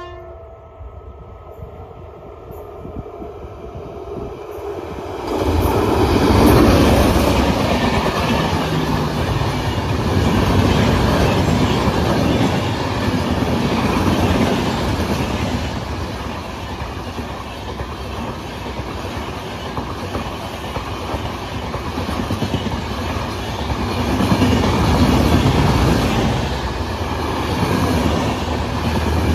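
Electric-hauled express train of LHB coaches passing at speed. The last of a horn note cuts off at the start, and the train's noise grows as it approaches. From about five seconds in, the coaches rush past with a loud, steady wheel-and-rail roar that swells and eases slightly as they go by.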